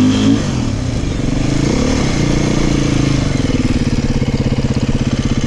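Beta 500 dirt bike's single-cylinder four-stroke engine revving briefly, then dropping back and settling into a steady, pulsing idle about three seconds in.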